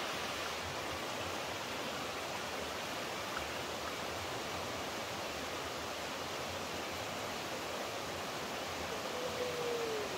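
Steady rushing of flowing water, like a stream or small waterfall. A faint tone glides downward near the end.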